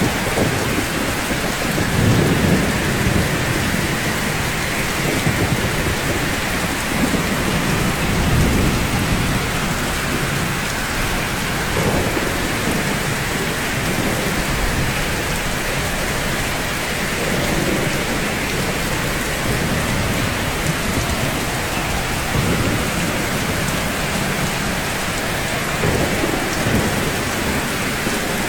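Steady rain falling on rooftops, an even hiss, with low rumbles swelling and fading several times.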